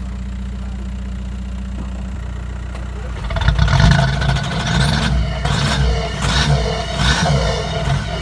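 Diesel car engine just after a cold start, idling steadily, then revved several times in quick succession from about three seconds in.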